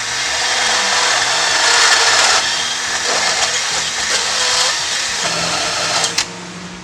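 Handheld power tool cutting into a steel bracket, enlarging and deburring a bolt hole so the bolt will fit, running steadily with a hissing metal-on-metal grind, then stopping about six seconds in.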